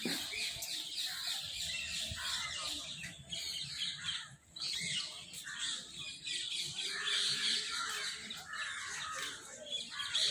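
Many birds calling and chirping at once, a dense, irregular chatter of short calls.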